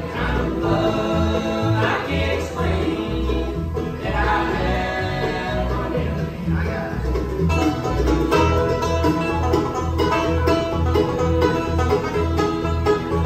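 Bluegrass band playing: singing over banjo, guitar and a steady bass pulse, then from about seven seconds in the singing stops and the picked instruments carry on, with banjo prominent.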